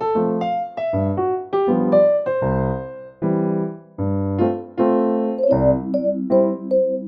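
Background piano music: a gentle melody played over chords, note after note.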